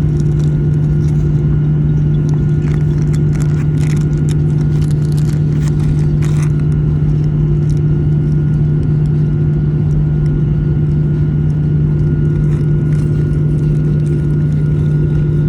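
Airliner cabin noise: a steady, loud drone of the jet engines and air system with a constant low hum. Light rattling clicks come and go a few seconds in.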